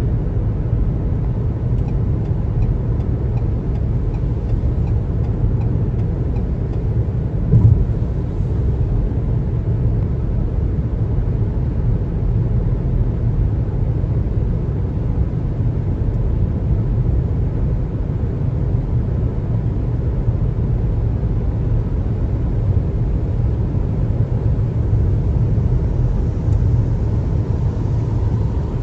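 Steady low road rumble of a car driving on a highway, tyres and engine droning evenly, with one brief thump about seven and a half seconds in.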